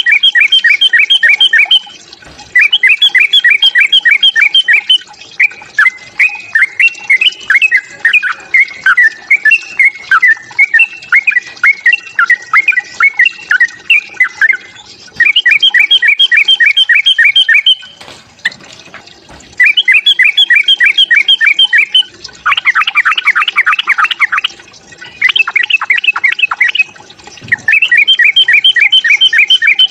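Yellow-vented bulbul (trucukan) fighting calls: loud phrases of rapid repeated notes, each about two seconds long with short pauses between, a longer varied run of notes in the first half and a dense, harsh chatter a little past the middle. It is a lure call meant to provoke other trucukan into singing.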